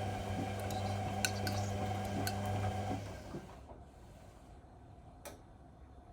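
Whirlpool Indiana 1400 washing machine running with a steady mains-pitched hum that cuts off about three seconds in, leaving only a low background. A few light clicks, one near the end.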